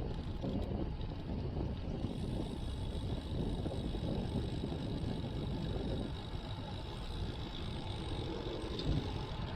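Steady rumble of wind buffeting a chest-mounted action-camera microphone while riding a road bike, mixed with road noise.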